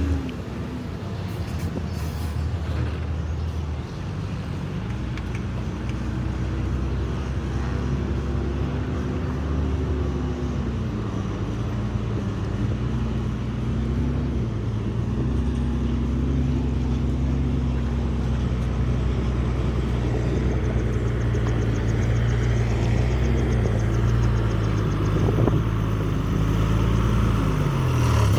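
Heavy diesel engine of earthmoving machinery working, its pitch dipping and rising repeatedly as the load changes, then falling away near the end.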